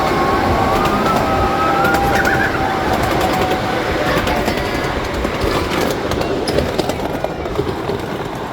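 Train running along the track with a steady rumble, its wheels squealing in high wavering tones for the first few seconds, then fading.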